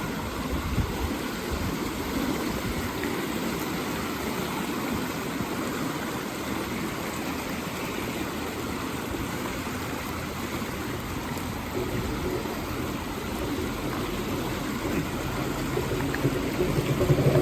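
Fast-flowing, rain-swollen creek rushing steadily. Near the end a vehicle engine grows louder as it approaches.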